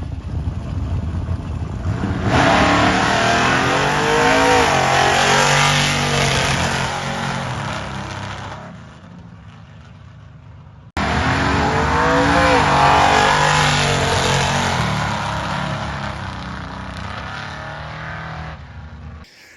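A drag car launching down the strip, its engine revving up and dropping back at each gearshift before it fades into the distance. The sound cuts off and a second launch of the same kind starts abruptly about halfway through.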